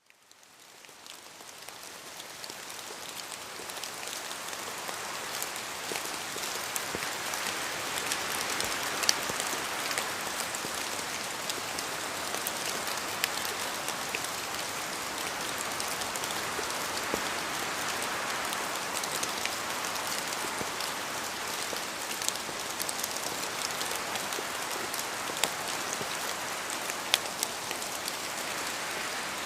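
Steady rain falling on a surface, a dense hiss with many individual drop taps, fading in over the first few seconds.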